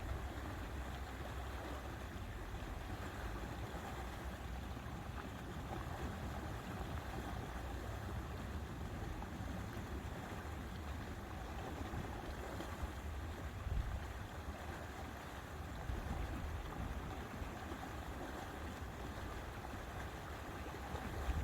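Steady outdoor lake ambience: an even wash of noise over a low rumble that swells briefly a couple of times.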